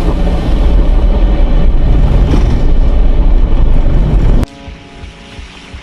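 Daihatsu Gran Max campervan driving over a muddy, rough dirt track: a loud, steady low rumble of engine and road noise. About four and a half seconds in it cuts off suddenly to a much quieter sound with faint background music.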